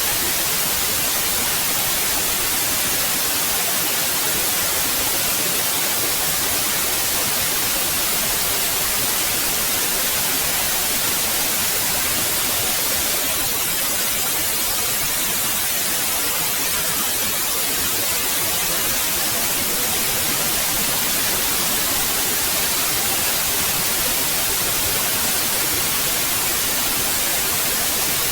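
Steady white noise: an even, unchanging hiss across the whole range, brightest in the treble.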